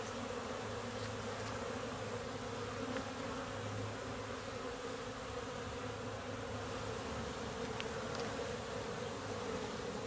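Honeybees buzzing in a steady hum as many fly around the hive entrance, a busy hive that the beekeeper takes to be making cleansing and orientation flights.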